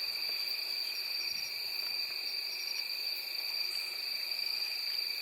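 Steady chorus of insects, such as crickets, trilling without a break at a high pitch.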